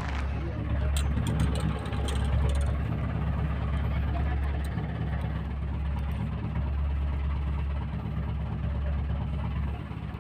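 A fishing boat's engine running steadily at idle, a continuous low drone, with a few light clicks in the first couple of seconds.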